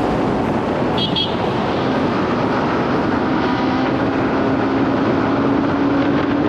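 Yamaha MT-15's single-cylinder engine through its stock exhaust, cruising at a steady speed, its pitch climbing a little near the end.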